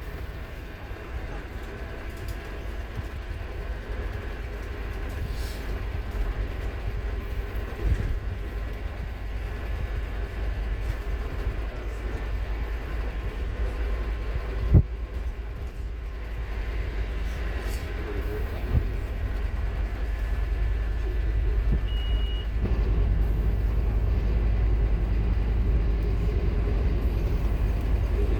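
Scania K230UB Omnilink single-decker bus heard on board while driving: a steady low rumble of engine and running gear that slowly builds in loudness, with a few sharp knocks and rattles from the body and one brief high beep about two-thirds of the way through.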